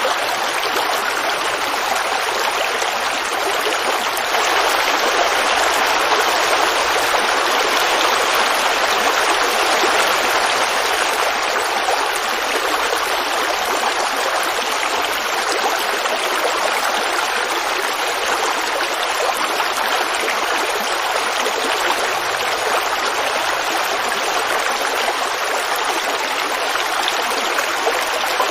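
Forest creek running and babbling over stones, a steady rush of water.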